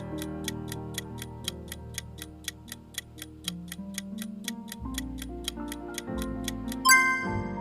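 Quiz countdown timer ticking steadily, about three to four ticks a second, over soft background music. About a second before the end the ticking stops and a bright chime rings, signalling that time is up.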